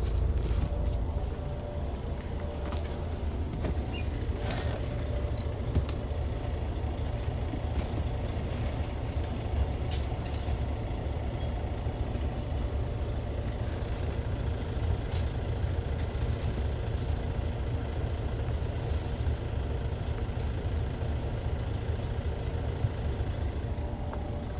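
Hyundai D6CC Powertec 380 six-cylinder diesel of a Hyundai Universe coach running under way, a steady low rumble with a few sharp rattles and clicks. It eases slightly about a second and a half in.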